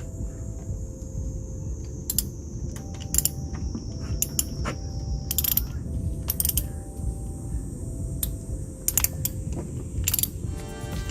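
Ratchet wrench clicking in short bursts of a few clicks each, spaced irregularly as a bolt is worked loose during an engine oil change.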